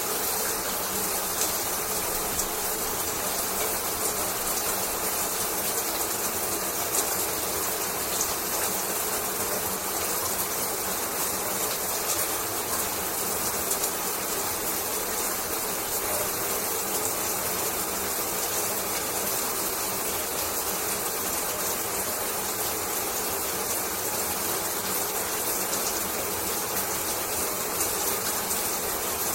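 Shower running steadily: an even, unbroken hiss of falling water spray.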